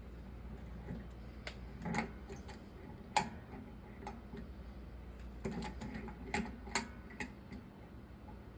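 Scattered light clicks and taps of plumbing tools and metal fittings being handled, the sharpest about three seconds in, over a steady low hum.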